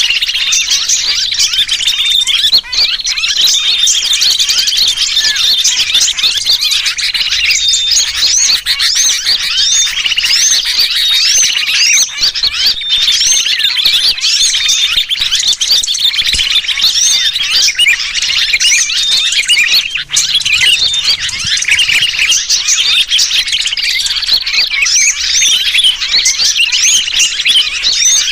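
Loud, dense chorus of many small birds chirping and chattering without a break, mixed with the distress calls of a trapped sooty-headed bulbul. It is a bird-trapping lure recording.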